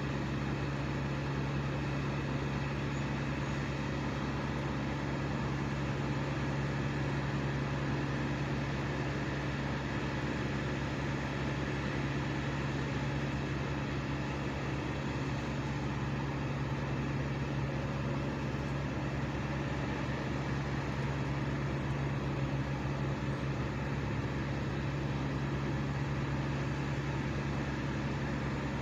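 An engine running steadily at a high idle, a constant hum that holds the same pitch and level throughout.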